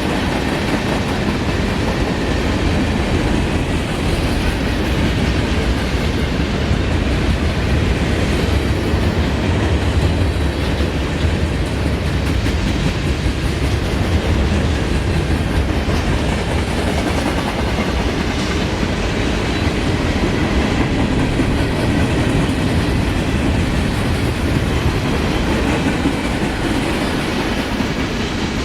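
A CSX freight train's cars rolling past on the track, a steady, unbroken rumble of wheels on rail.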